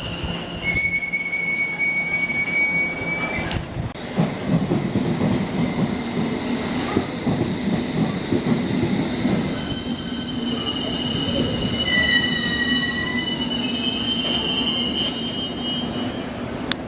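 A train running through a station with its wheels squealing on the rails: a rumble of wheels under several high, steady squealing tones, which multiply in the second half.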